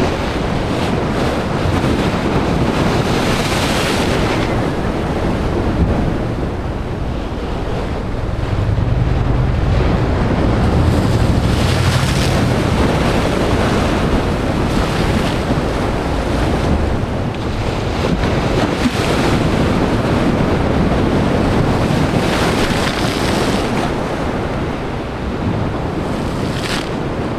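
Sea waves breaking hard against a rocky shore, with spray: a continuous wash of surf with a louder crash every few seconds. A deeper low rumble swells about a third of the way in.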